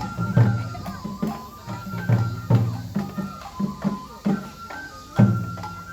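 Japanese festival music for a lion dance: a bamboo flute plays a held, stepping melody over deep drum strikes, about two a second.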